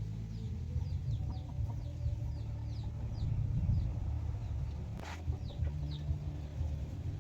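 Free-range chickens clucking low and continuously, with chicks peeping in short high falling notes two or three times a second. There is one sharp click about five seconds in.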